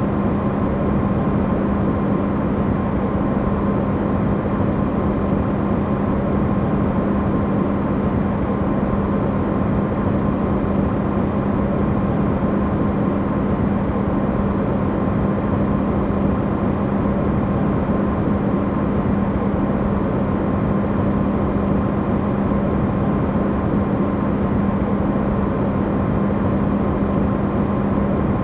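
Amplified recording of an Electrolux refrigerator running: steady noise with a strong low hum and a faint higher whine.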